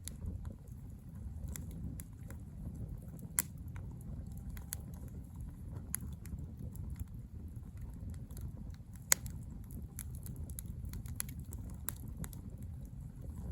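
Campfire burning: a steady low rumble with scattered sharp pops and crackles from the wood. Two pops stand out louder, one a few seconds in and one past the middle.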